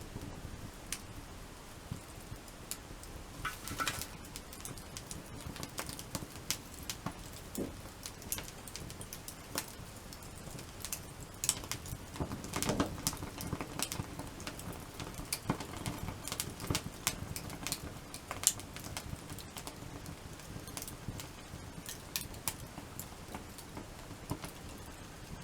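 Wood fire burning in a crib-stacked (igeta) fire lay, crackling with sharp, irregular pops and snaps over a low steady rush of flame.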